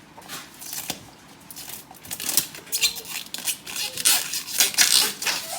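Rustling and crinkling of packaging being handled and peeled, with dense crackles that grow louder and busier in the second half.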